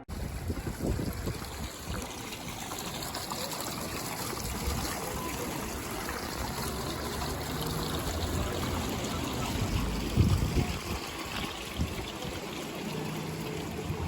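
Steady rush of running, trickling water, with low rumbling bumps now and then, the loudest about ten seconds in.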